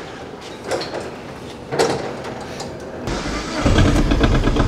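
Two knocks from the microcar's door as the driver gets in. Then, about three seconds in, the Aixam's Kubota Z482 two-cylinder diesel starts and runs at a steady idle.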